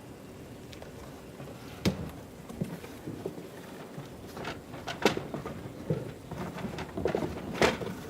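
Wooden beehive frames being handled and knocked together: sharp wooden clunks about two, five and seven and a half seconds in, with lighter rattling and clatter between.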